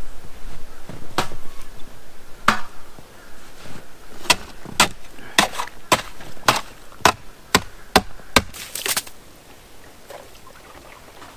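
About a dozen sharp blows breaking the ice on a frozen horse water trough, coming faster in the middle and stopping about nine seconds in.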